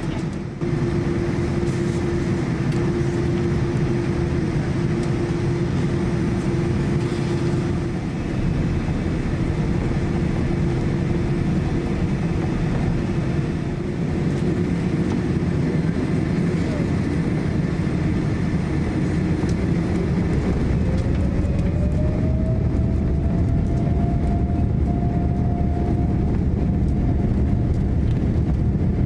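The Boeing 787-9's GE turbofan engines, heard from inside the cabin, running steadily as the plane taxis with a constant low rumble. About twenty seconds in, an engine tone rises in pitch and holds at the higher note.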